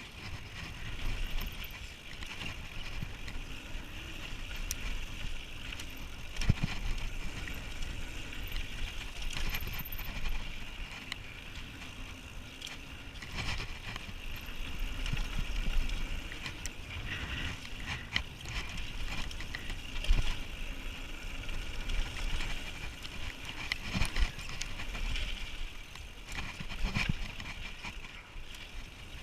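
Mountain bike being ridden on a dirt trail: continuous tyre and drivetrain noise, with the bike rattling and sharp knocks as it goes over bumps.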